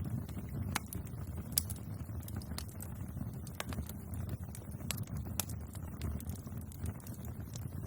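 Wood fire burning steadily, with a low rumble and irregular sharp crackles and pops.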